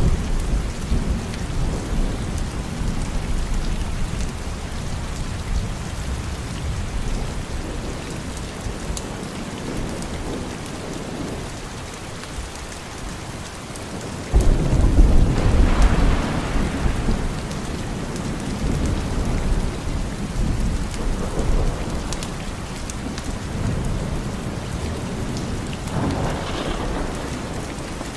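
Steady rain with rolling thunder. A loud rumble of thunder breaks in suddenly about halfway through and dies away over a few seconds, and a softer rumble swells near the end.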